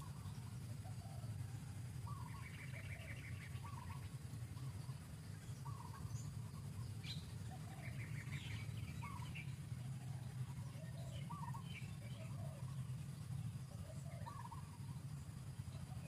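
Wild birds calling in forest: a short two-note call repeated every second or two, with a fast trill now and then from another bird. A steady low hum runs underneath.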